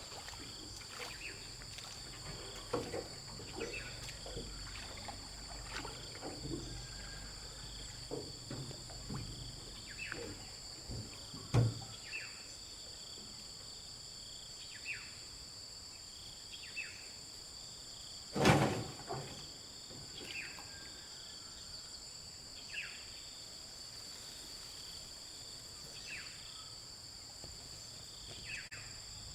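Steady high-pitched drone of insects, with a bird's short falling call repeated every couple of seconds. Scattered light knocks in the first half, and two sharp knocks about twelve and eighteen seconds in, the second the loudest.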